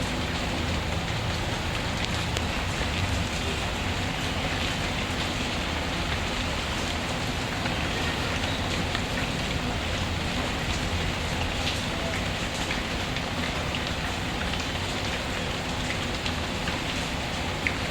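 Steady rainfall as an even hiss, with scattered small crackles and pops from a wood fire, one sharper pop near the end.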